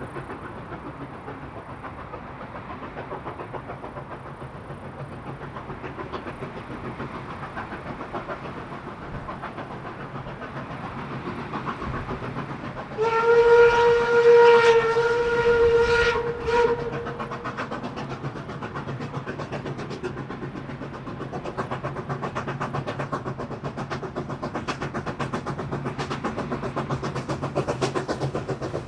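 A K-27 2-8-2 narrow-gauge steam locomotive working a train past, its rhythmic exhaust and running noise growing louder toward the end. About halfway through its steam whistle sounds one long blast of about three and a half seconds.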